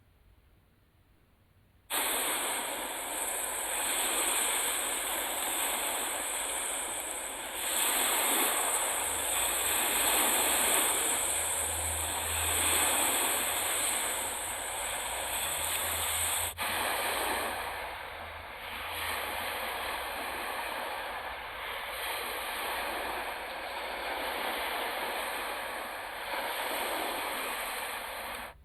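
Lake waves washing on the shore in strong wind, a steady rushing with slow surges. It starts suddenly about two seconds in, breaks off for an instant a little past halfway, and stops suddenly near the end.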